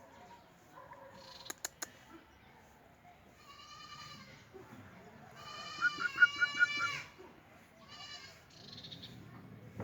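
Dogs whining in several drawn-out high-pitched calls. The longest and loudest comes in the middle, lasts about a second and a half, and has sharp yelps on top. Two quick clicks come about one and a half seconds in.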